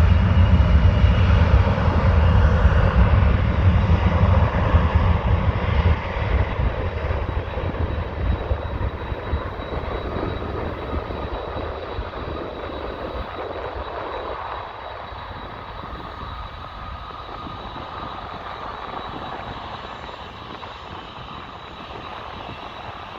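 Embraer E175 regional jet's twin turbofan engines at takeoff power, a deep rumble loudest at first and fading steadily as the aircraft climbs away.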